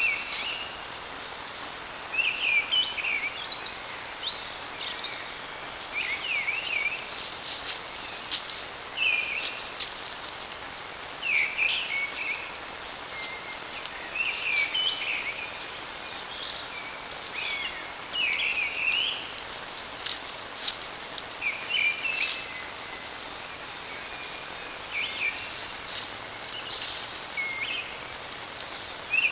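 A songbird singing short, varied phrases with brief pauses, one every second or two, over the steady hiss of a trail camera's microphone.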